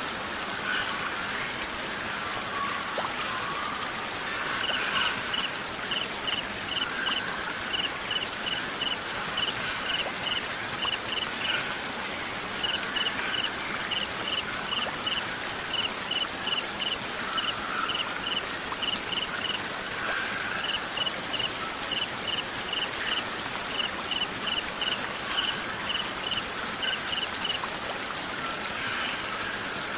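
Crickets chirping in regular groups of three or four quick pulses over a steady hiss of falling rain. The chirping starts a few seconds in and stops a couple of seconds before the end.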